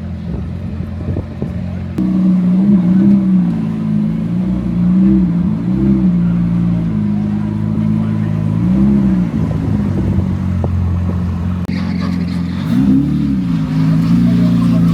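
A car engine idling loudly with several short revs that rise and fall in pitch; a second, louder engine note joins about two seconds in.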